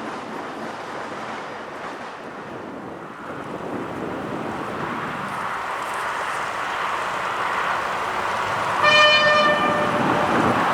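Rumble of a freight train on an industrial line, with one short, steady single-note horn blast from a T448p diesel locomotive about nine seconds in.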